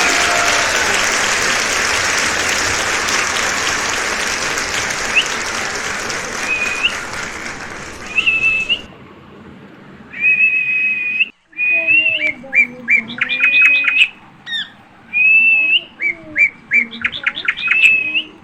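Pet parrot chirping and whistling in short, repeated high calls, some of them falling quickly in pitch, mixed with lower gliding sounds. For the first half a steady hiss covers everything and ends suddenly about nine seconds in.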